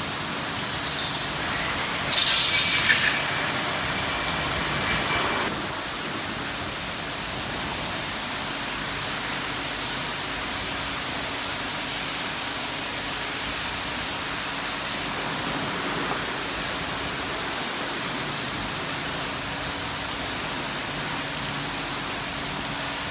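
Steady road and wind noise of a car driving, with a faint steady hum underneath. A louder rattling, clinking burst comes about two seconds in and fades by about five seconds.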